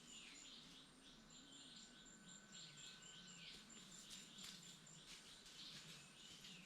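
Faint rainforest insect and bird chorus: a high, thin insect trill pulsing about twice a second over a steady insect tone, with short swooping bird whistles.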